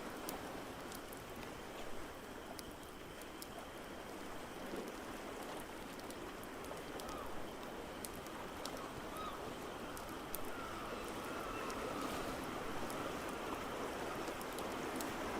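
Layered ambience: a steady wash of water noise, rain or surf, with scattered small pops and crackles of a wood fire. A faint wavering tone rises and falls for a few seconds past the middle.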